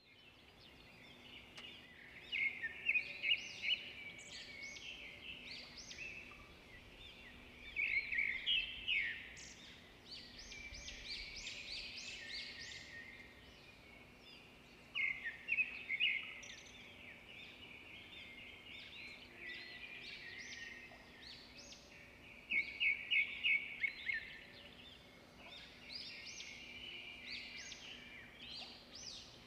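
Birds calling in bursts of rapid repeated chirps several times over, loudest at about 3, 8, 16 and 23 seconds in, over a faint steady background.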